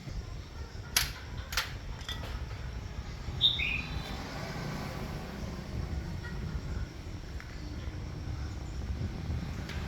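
Two sharp clicks in quick succession, then a small bird gives a short falling two-note chirp, over a steady low rumble.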